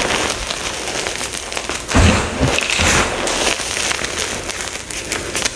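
Dyed gym chalk blocks being crushed and crumbled: steady crisp crackling and crunching, with a heavier crunch about two seconds in.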